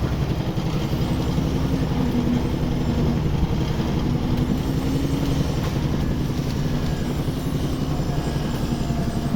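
Engine of the site's concrete mixer or concrete lift machine running steadily, with a fast, even pulse.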